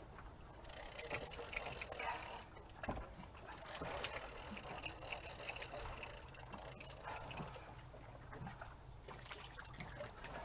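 Water lapping and trickling against a small boat's hull, with scattered small clicks and knocks.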